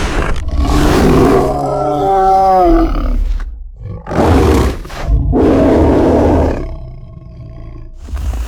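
Wampa monster roar sound effect: two long roars, the first with a wavering, slightly falling pitched howl in its middle, followed by a quieter low growl before the next roar starts at the very end.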